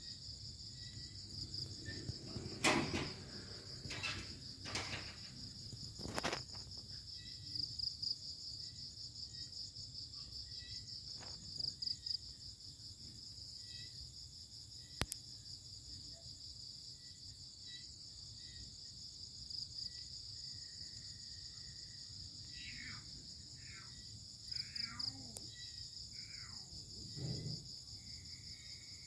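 Steady, fast-pulsing high trill of night insects such as crickets, with small repeated chirps over it. A few sharp loud noises come a few seconds in, and several short calls sliding down in pitch come near the end.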